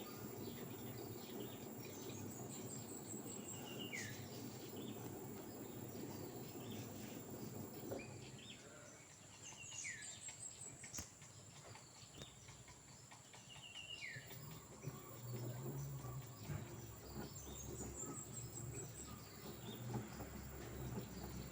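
Faint rural outdoor ambience: insects trill in a steady high drone, and a bird repeats a short arcing call every few seconds over a low background rumble.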